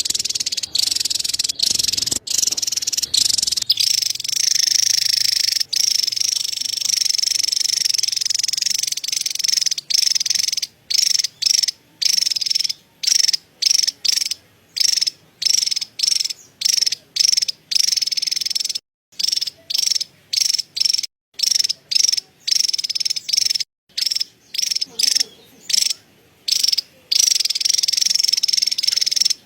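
Javan tesia giving its high-pitched, rapid chattering call. The chatter runs unbroken at first, breaks into short bursts about two a second from roughly a third of the way in, and runs on unbroken again near the end.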